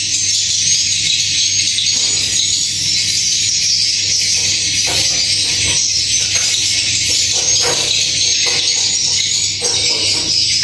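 Swiftlet calls, a dense continuous high-pitched twittering, over a steady low hum, with irregular lower rustling and knocking sounds from about two seconds in.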